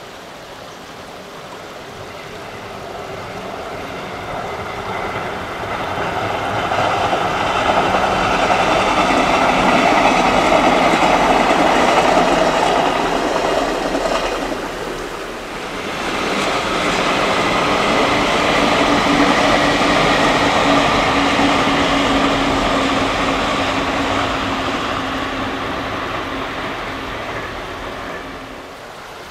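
JR Kyushu electric train running past on the line, its running noise swelling up and fading away. It happens twice, with a short dip between; the second pass carries a steady low hum.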